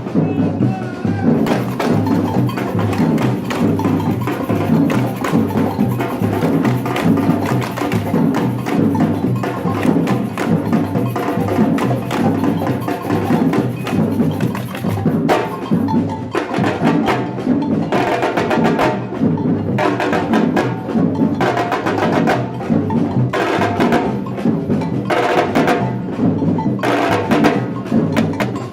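Batucada samba percussion group playing a steady, dense drum groove with sharp wood-block-like clicks; the clicks stand out more sharply about halfway through.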